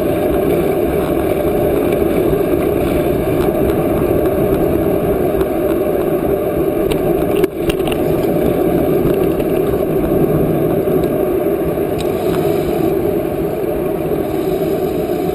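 Steady wind noise rushing over the microphone of a moving bicycle, with a brief drop about seven and a half seconds in.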